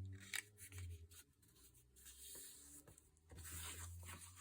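Faint rustling and a few light taps of paper being folded and handled, over a low hum.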